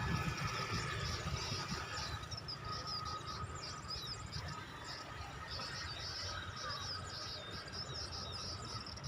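Small birds chirping in a rapid, continuous run of short high notes, over a faint steady high hum and a low rumble that is strongest in the first two seconds.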